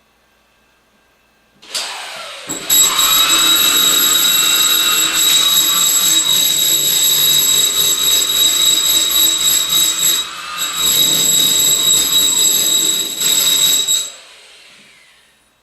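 A loud electric motor-driven tool running with a high-pitched whine. It spins up about two seconds in, dips briefly near the ten-second mark and winds down near the end.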